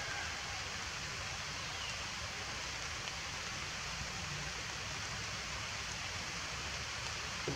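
Steady rain falling on forest leaves, an even hiss with no distinct drops standing out.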